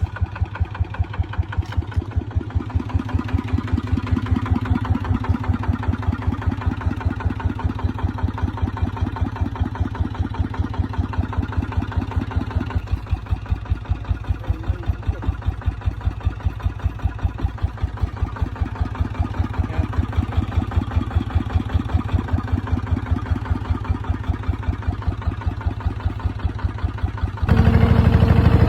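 Small tractor engine running with a steady, even pulsing beat. Near the end it suddenly becomes much louder.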